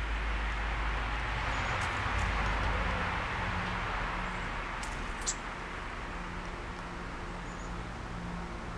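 A car passing on the road, its tyre and engine noise swelling about two seconds in and then fading. A few short sharp clicks, the loudest about five seconds in, and faint bird chirps sound over it.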